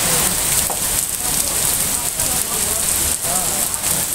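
Heavy rain falling steadily, an even hiss of rain on the ground.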